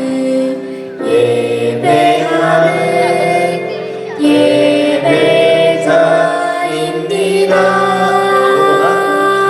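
Worship song playing: music with several voices singing a melody in sustained notes.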